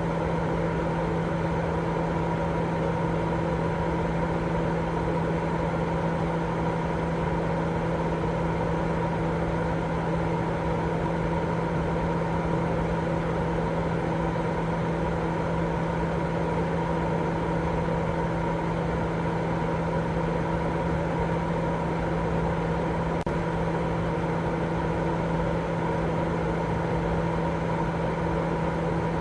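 Continuous sleep-aid white noise: an even, unchanging rush of noise with a steady low hum running through it, like a running appliance.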